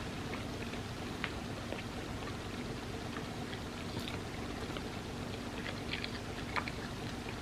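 Close-miked eating sounds: scattered small wet clicks and smacks of someone chewing soft, creamy crepe cake, over a steady hiss and faint hum.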